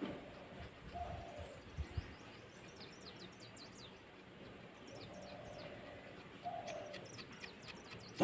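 Small birds chirping: several quick runs of short, high, falling chirps, with a lower, short call twice.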